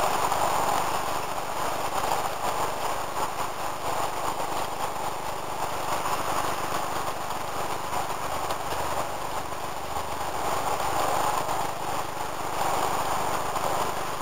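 HO-scale model freight train running steadily on the layout: the locomotive motors whirring and the cars' metal wheels rolling and clicking along the rails.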